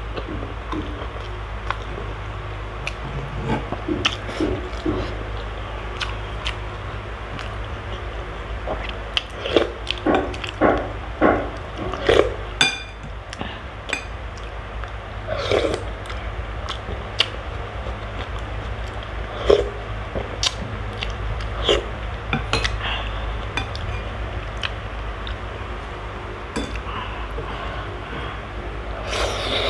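Close-miked chewing and biting of rice and crispy shrimp fritter, with a run of louder bites about ten seconds in. A metal spoon clinks against a glass soup bowl, and a steady low hum runs underneath.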